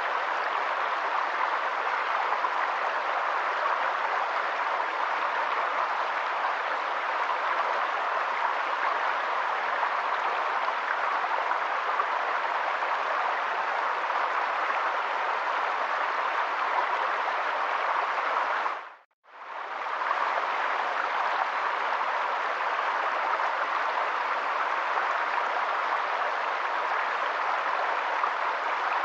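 Steady rush of water, an even hiss with no distinct drops or splashes. About two-thirds of the way through it fades out briefly and comes straight back.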